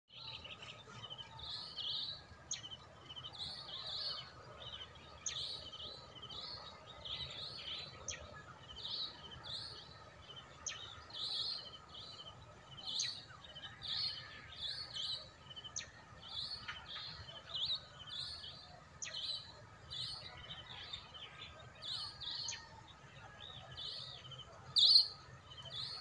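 Birds chirping in short, high repeated calls about once or twice a second, with one louder call near the end, over a faint low steady background rumble.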